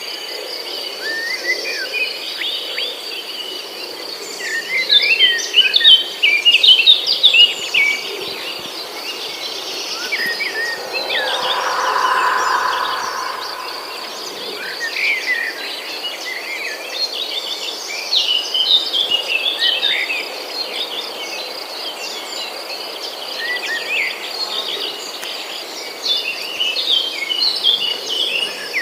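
Tropical forest ambience: a steady, high insect drone runs throughout, with many short bird chirps and whistles over it, busiest in the first third and again near the end. About ten seconds in, a lower buzzing hum swells for a few seconds and then fades away.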